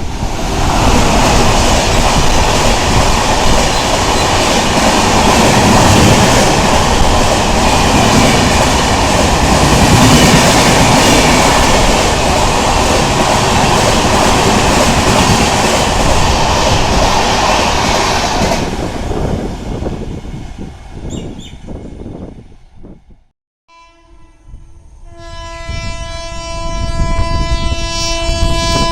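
A train passing close at high speed, a loud steady rush and rattle of wheels on rail that dies away about 19 to 23 seconds in. Then, after a sudden break, a train horn sounds one long, steady, held blast that grows louder as the next train approaches.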